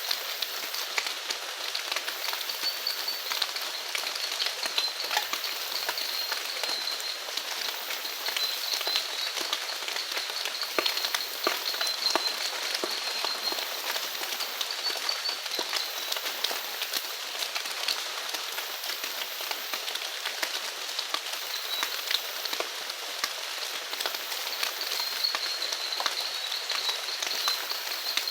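Steady rain falling, with many close drops ticking on surfaces. A faint, high, wavering trill comes and goes over it.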